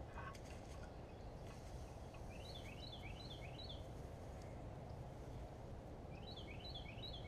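A songbird singing two short songs, each a quick run of four or so repeated down-slurred notes, the first about three seconds in and the second near the end, over a faint steady low outdoor background noise.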